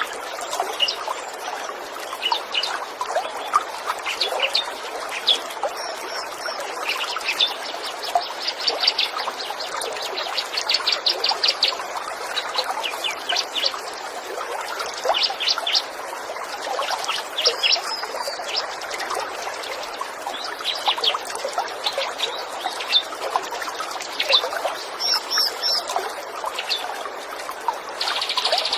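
Small songbirds chirping and calling in quick high trills over the steady sound of running, trickling water.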